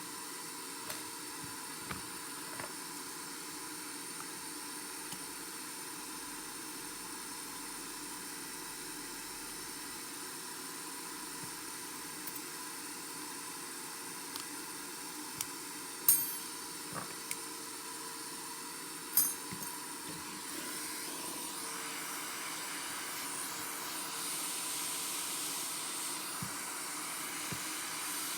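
Light clicks and taps of small hand tools working on a smartphone, with two sharp, louder clicks about midway, over a steady hiss that grows a little louder in the last third.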